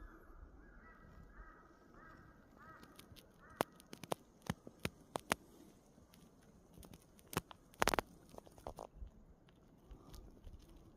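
A bird calls several times in quick succession with short, arching honk-like notes. After that comes a series of sharp crunching clicks, the loudest a quick double near the middle.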